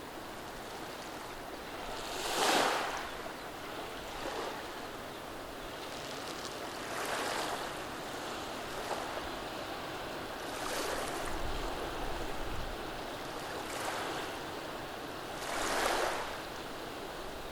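Gentle waves of a calm sea washing over a beach of rounded cobblestones: a steady hiss with about five swelling washes, the strongest a couple of seconds in and near the end.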